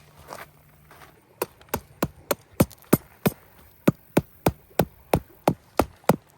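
Rapid, even hammering: about fifteen blows at roughly three a second, starting about a second and a half in with a short break midway, and stopping near the end.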